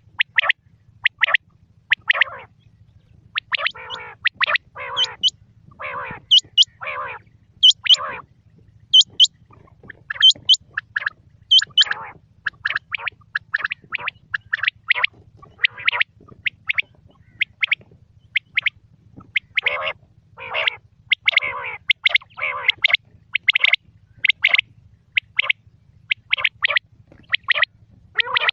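Quail calling over and over in quick, irregular series of short notes. Some notes are high and clipped, others slide downward.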